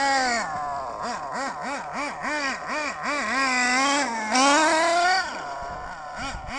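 SH .18 nitro engine in an ACME 1/8 Attacker buggy being blipped on the throttle, revving up and down about three times a second. About four seconds in it is held in one longer rising rev and then drops back, with a few more blips near the end. This is throttle testing just after the high-speed needle was set an eighth of a turn richer.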